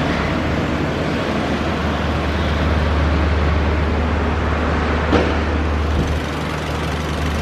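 Toyota Vios engine idling with a steady low hum. A single sharp click comes about five seconds in.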